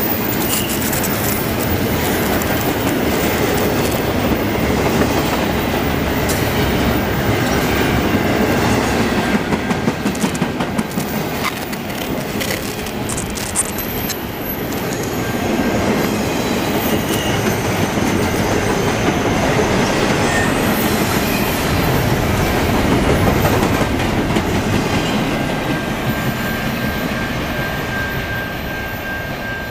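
Double-stack container well cars of a long freight train rolling past. The wheels on the rail make a continuous rumble and rattle with clickety-clack over the rail joints. A thin, steady high whine comes in near the end as the last cars move away.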